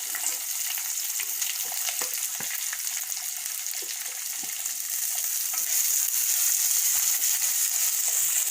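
Chopped onion and garlic frying in hot sesame oil in a clay kadai: a steady sizzle with scattered scrapes and taps of a spoon stirring. The sizzle grows louder a little past halfway through.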